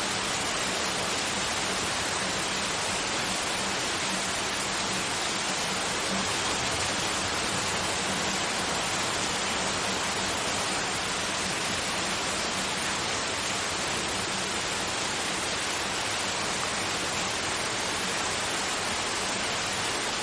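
Continuous white noise: a steady, even hiss that does not change, with a faint low hum underneath.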